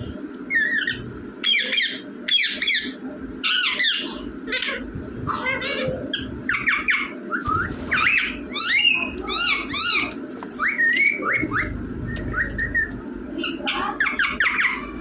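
Indian ringneck parakeet calling: clusters of short, high calls that sweep quickly up and down in pitch, repeated through the whole stretch, over a steady low background hum.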